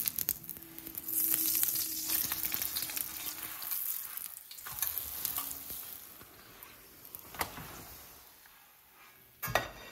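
Oil sizzling under a whole-wheat paratha frying on a hot iron tawa, with light clicks of a metal spoon and tongs against the pan. The sizzle is loudest in the first few seconds and dies down towards the end, and a sharp knock comes near the end.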